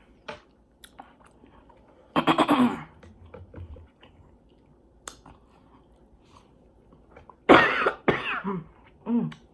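A woman coughing and clearing her throat while eating, the spicy sauce catching in her throat: one burst about two seconds in, then a louder run of three near the end. Faint chewing clicks come between.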